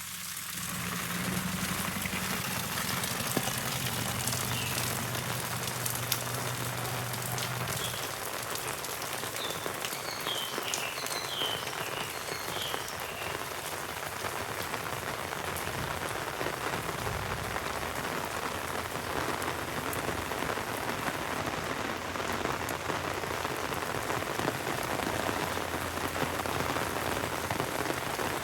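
Heavy rain falling, a dense, even hiss that swells up in the first second and then holds steady.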